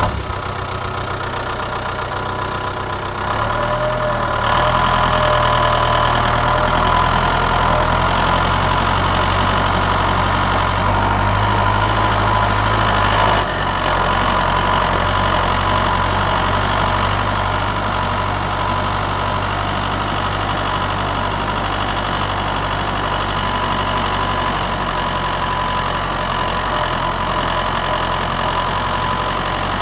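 Mini tractor's engine running steadily at idle. It gets louder a few seconds in and eases back a little about halfway through.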